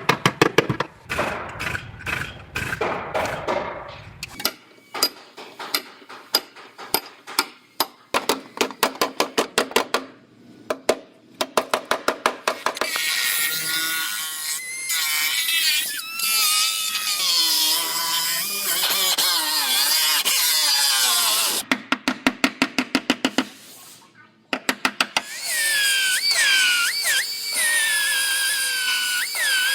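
Rapid hammer strikes on car body sheet metal, then a power tool cutting with a high-pitched whine whose pitch wavers and slides under load. A second short run of strikes comes just past two-thirds of the way through, before the cutting whine resumes.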